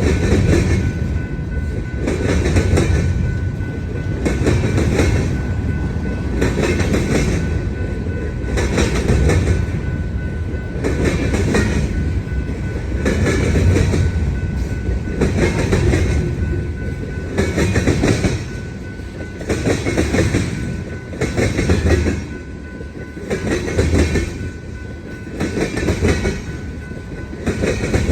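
Freight cars of a Union Pacific manifest train rolling over a rail diamond crossing. The wheels clatter across the crossing frogs in a steady rhythm, about once a second, over a continuous rumble.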